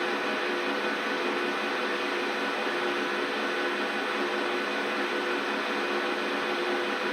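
Large 39 kg commercial washing machine running with a steady whirring hum and even hiss.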